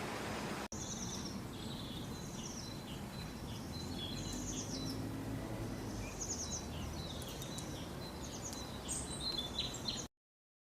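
Small birds chirping and singing in short, quick, high-pitched phrases over steady outdoor background noise. The sound drops out for an instant about a second in and cuts off suddenly near the end.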